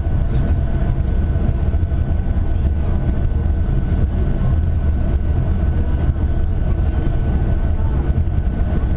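Steady running noise inside a Yurikamome automated guideway train in motion: a loud low rumble with a thin, high, steady whine over it.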